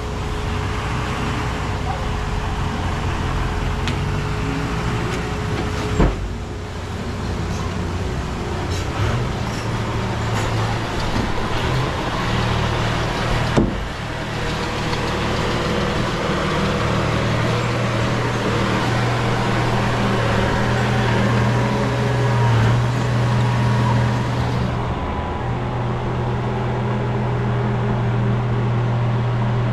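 Diesel engine of heavy earthmoving machinery running steadily with a deep hum that grows louder about halfway through. Two short sharp knocks, about six and fourteen seconds in.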